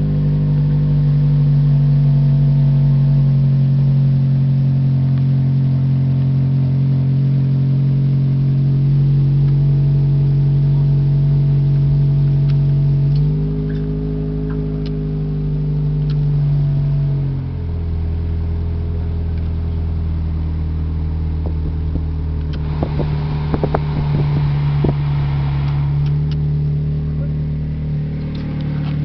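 Toyota 1NZ four-cylinder petrol engine running at a steady raised speed, stepping up slightly in pitch partway through, then dropping to a lower, settled idle. A cluster of clicks and rattles comes near the end.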